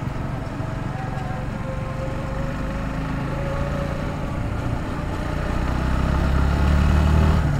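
Motorcycle engine running while riding, growing louder toward the end as it pulls harder, then easing off.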